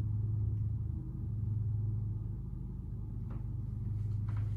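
Steady low hum, with two faint short sounds in the second half.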